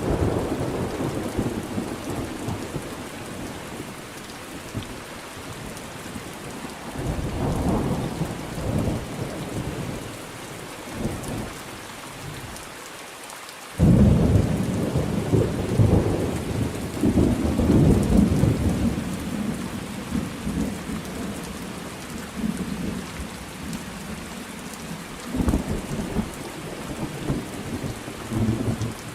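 Thunderstorm with steady rain falling; thunder rumbles several times, with a sudden loud clap about halfway through that rolls on for several seconds, and a shorter rumble near the end.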